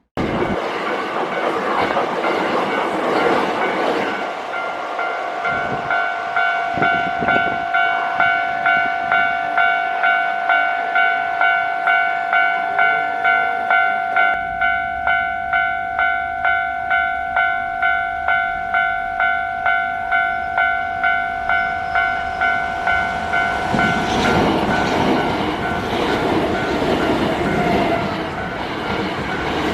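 Hankyu Kobe Line electric train running over the rails, with a level-crossing warning bell ringing in a steady repeating ding about one and a half times a second through the middle of the stretch. Louder train running noise returns near the end as a train passes.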